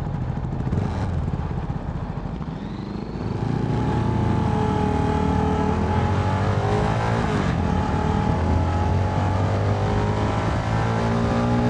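CFMoto 300NK's single-cylinder engine under way: the revs drop about two seconds in, then the engine pulls up with rising pitch and settles into a steady cruise.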